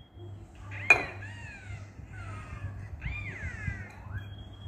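A bird calling twice, about two seconds apart, each short call falling in pitch; a sharp clink comes with the first call. A low steady hum runs underneath.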